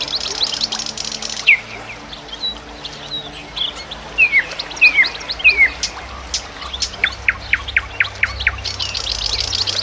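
Birds chirping. A rapid trill of about a second opens the sound and another comes near the end, with a few down-slurred whistles and a quick run of sharp chips in between.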